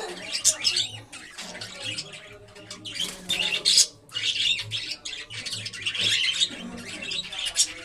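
Several small caged parrots chattering and squawking, with many short, scratchy calls overlapping throughout.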